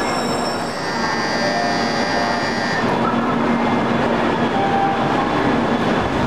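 Shinkansen bullet train moving at a station platform: a steady running rumble with high whining tones that stop about three seconds in.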